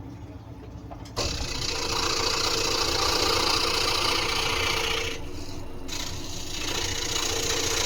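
Scroll saw running and cutting through wood: a steady hum with a hiss of the blade in the wood. The cutting noise starts abruptly about a second in and thins briefly past the middle.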